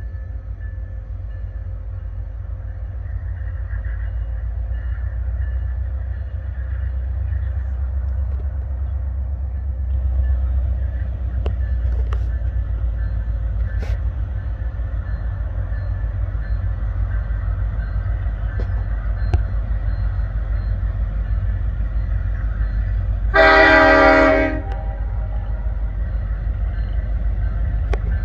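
Union Pacific diesel freight locomotives rumbling low and steady as the train approaches, with one horn blast of about a second and a half near the end.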